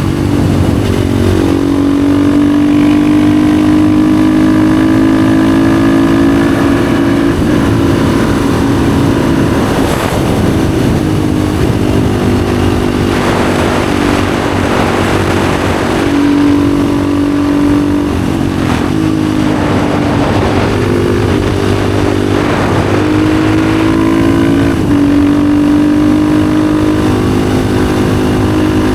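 Husqvarna FE 450's single-cylinder four-stroke engine through an FMF exhaust, pulling hard under way, its pitch climbing and then dropping at each gear change, several times over.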